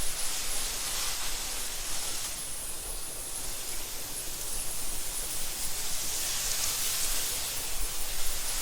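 Wind blowing through tall meadow grass: a steady rushing hiss that swells and eases in gentle gusts.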